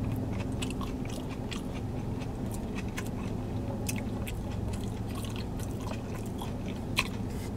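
Closed-mouth chewing of a mouthful of loaded tater tots, with faint wet mouth clicks scattered throughout, over a steady low hum in a car cabin.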